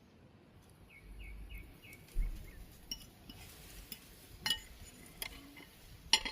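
Light clinks and knocks of tableware being handled, about five scattered strikes, the sharpest near the end. A short run of faint high chirps comes about a second in.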